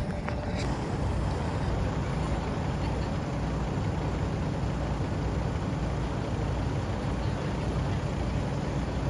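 Bus engine running, a steady low rumble that holds level throughout.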